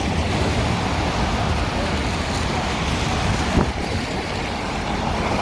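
Traffic on a busy city avenue in the rain, a steady wash of passing vehicles and wet-road noise, with wind buffeting the microphone. There is one brief knock about three and a half seconds in.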